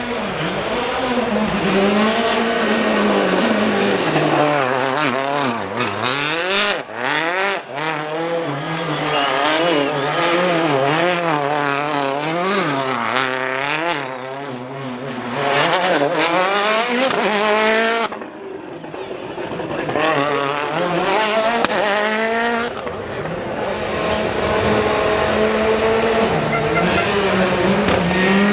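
Rally car engine revving up and down in quick repeated waves, as in donuts, with tyre squeal. A few sharp exhaust cracks come about a quarter of the way in, and the revs drop briefly about two-thirds of the way through before building again.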